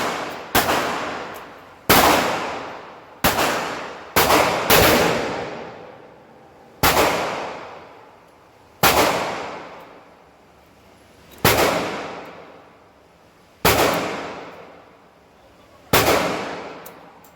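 About ten handgun shots, fired at an uneven pace one to two and a half seconds apart, with a quick pair about four seconds in. Each crack trails off in a long echo.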